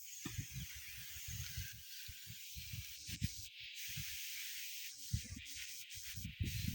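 Wind gusting across a phone microphone in irregular low rumbles, over a steady outdoor hiss.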